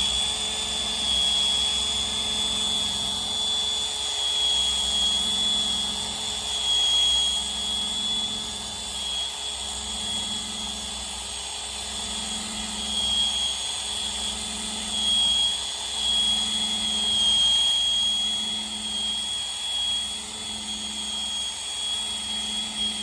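Electric drill spinning a rubber eraser wheel against a decal on a semi truck, rubbing off an IFTA sticker: a steady high whine that dips a little in pitch now and then as the wheel is pressed in.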